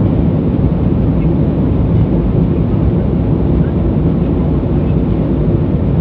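Boeing 737 jet engines and airflow heard from inside the passenger cabin during takeoff: a loud, steady, deep rumble.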